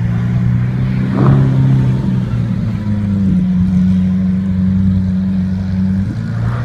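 Lamborghini Aventador Roadster's V12 engine running at low revs as the car pulls slowly away, a deep steady rumble. A brief sharper blip comes about a second in, the pitch steps up a little about two and a half seconds in, and it falls back near the end.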